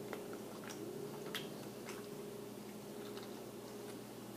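A person biting into and chewing a crispy chicken wrap in a flour tortilla, with a few faint crunchy clicks. A steady low hum runs underneath.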